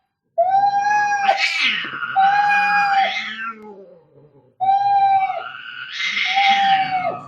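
Cats fighting: two bouts of angry yowling, each a long, steady wail that breaks into a harsh screech, with a short pause between them.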